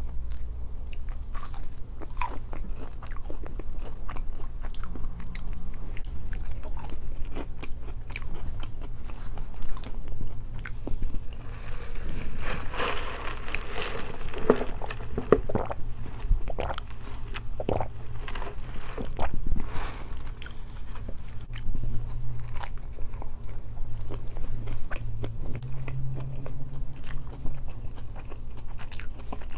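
Close-miked chewing and biting of a grilled chicken flatbread wrap and waffle fries, with crunches and wet mouth sounds. A sip through a straw comes about halfway through.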